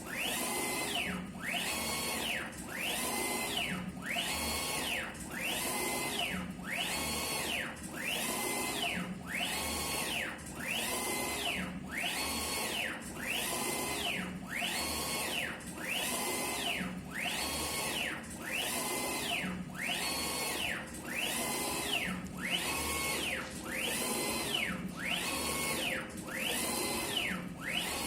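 Olympos 6090 UV flatbed printer printing: the print-head carriage's motor whines up in pitch, holds and drops again on each sweep, about one pass a second in a steady rhythm.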